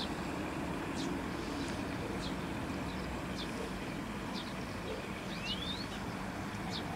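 Small birds chirping in short high calls, about a dozen scattered through, with one rising whistle about five and a half seconds in, over a steady outdoor rumble.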